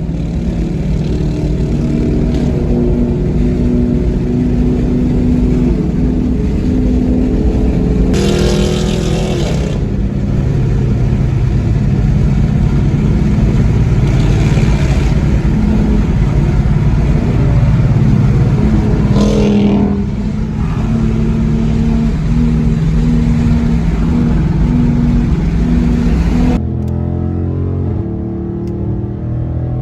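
High-performance car engines running hard and revving on the road, with cars passing. A sweeping rise and fall comes twice, about eight and nineteen seconds in. The sound changes abruptly near the end.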